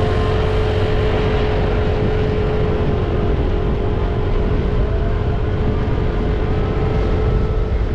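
Scooter engine running at a steady pitch while riding, under a heavy rush of wind and road noise.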